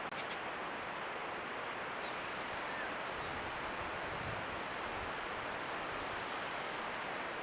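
Steady hiss of outdoor background noise with a thin, high, steady electronic tone, and a couple of small clicks right at the start.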